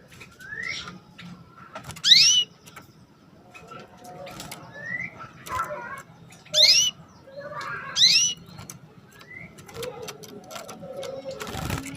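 Female canary giving short rising 'cuit' call notes, three loud ones and several fainter, among sharp clicks and a brief rustle near the end.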